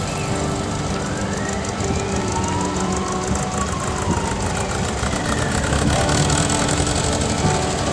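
Car engines running, one rising and then falling in pitch as a car drives by, over a steady background that may carry music.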